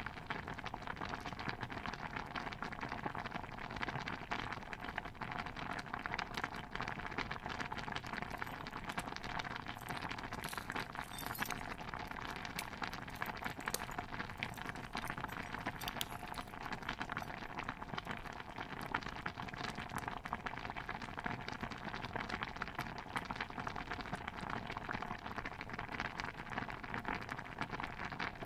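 Steady dense bubbling and popping of a simmering pot of stew, a continuous patter of small pops without pause.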